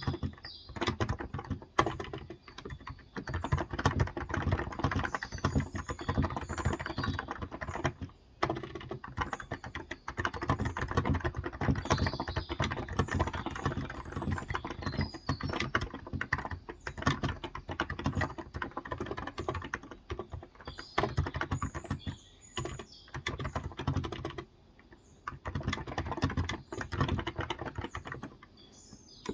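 Fast, continuous typing on a Cox Endeavor electrostatic capacitive (Topre-style) tenkeyless keyboard with 35 g switches, a dense run of soft keystrokes broken by a few short pauses.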